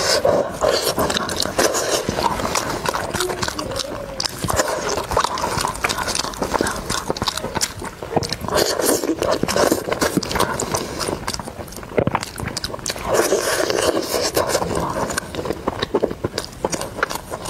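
Close-miked chewing of braised meat, with wet lip smacks and clicking mouth sounds running on throughout, along with gloved hands pulling the meat apart.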